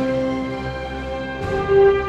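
Symphony orchestra playing held chords in an arrangement of Hanukkah songs. A new chord comes in about one and a half seconds in, louder and pitched higher.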